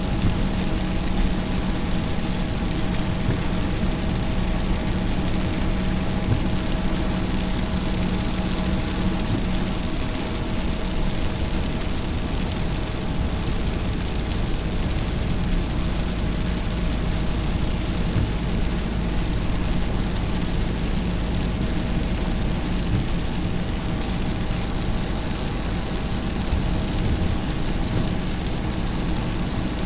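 A vehicle's engine running steadily under a constant rushing noise, with an even hum and no change in speed.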